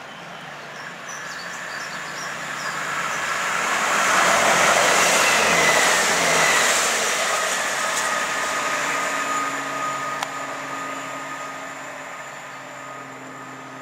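A First Great Western Networker Turbo diesel multiple unit passing through the station at speed. Its wheel and engine noise swells to a peak about five seconds in, then fades away.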